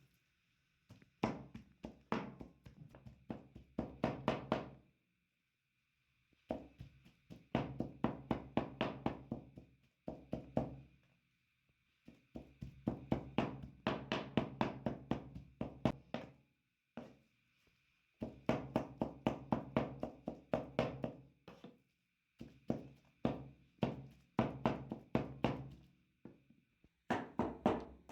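Chicken meat being pounded for kebab: quick, repeated heavy strikes, about five a second, in runs of three to four seconds with short pauses between them.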